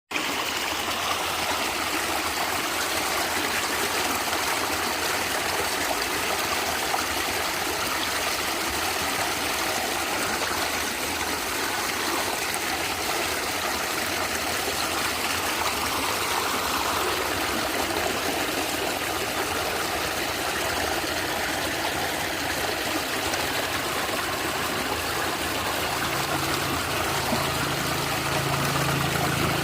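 Natural stream water gurgling and flowing steadily. A low hum joins in about four seconds before the end.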